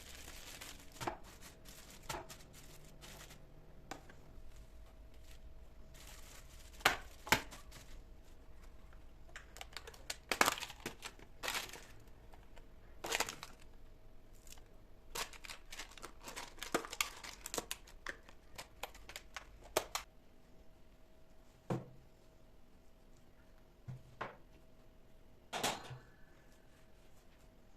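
Kitchen handling noises: scattered sharp clicks and knocks at irregular intervals, with crinkling of packaging in between. A faint steady hum underneath stops about two-thirds of the way through.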